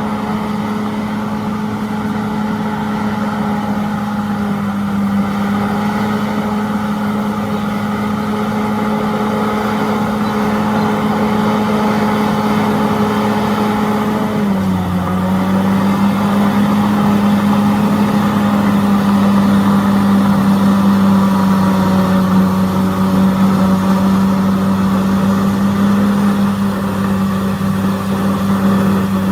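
Diesel engine of heavy earthmoving machinery running steadily. About halfway through, its pitch dips briefly, then it runs on with a deeper, slightly louder note.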